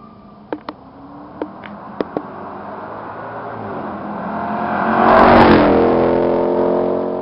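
Cadillac STS Northstar V8 with a Corsa muffler-delete exhaust, growing louder to a peak about five seconds in and then fading. A few sharp clicks sound in the first two seconds.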